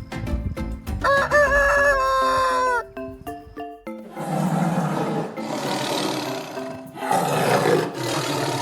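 A rooster crowing once, a single call of about two seconds, over light background music with plucked notes. It is followed by two rough, noisy animal calls of about a second each.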